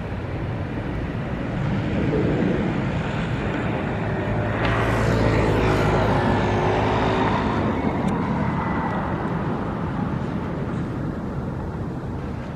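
Steady city traffic noise, with a motor engine hum that swells as it passes from about four to eight seconds in, then fades.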